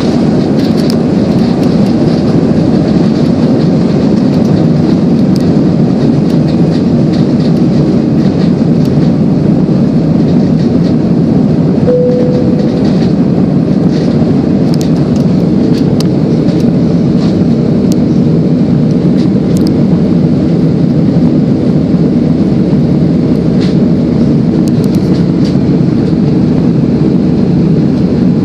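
Steady cabin noise of a jet airliner climbing after take-off, heard from inside the cabin: a loud, unchanging rumble of engines and rushing air. A short single tone sounds about halfway through.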